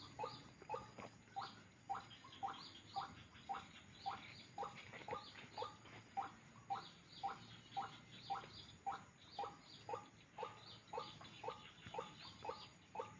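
An animal calling over and over in a steady rhythm, about two to three short calls a second, each call dropping slightly in pitch.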